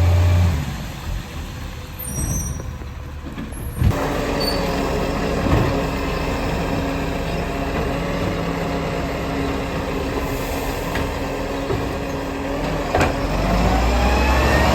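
Garbage truck working: its engine running, a sharp bang about four seconds in, then a steady hum through the middle, and the engine rising again near the end.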